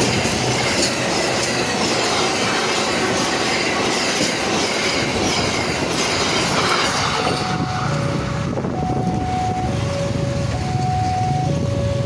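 Passenger train coaches passing at speed over a level crossing: a steady rush of wheels on rail with regular clicks from the rail joints, fading after about seven seconds as the last coach clears. From then on the crossing's electronic warning alarm alternates two tones about once a second.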